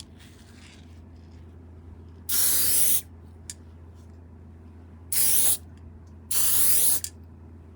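Aerosol spray paint can sprayed through a Blizzard fat cap in three short bursts, each under a second long, with a faint brief hiss just after the start.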